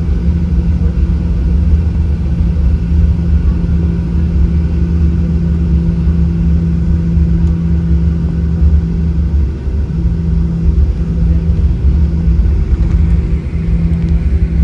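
Inside the cabin of a Boeing 737-800: a loud, steady low rumble with a constant engine hum from its CFM56 turbofans, heard from a seat over the wing.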